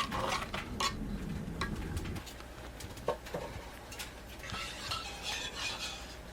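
Metal utensils clinking and scraping against dishes and pots in scattered sharp clicks.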